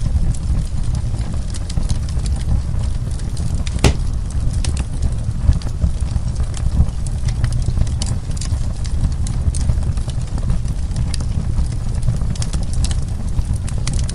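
Wood fire burning in a fireplace: a steady low rumble of flames with many small, irregular crackles and pops, and one sharper pop about four seconds in.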